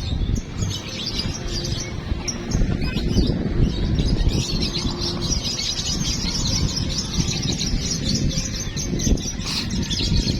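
Many caged songbirds singing at once, a dense, unbroken chatter of rapid high chirps, over a low rumble.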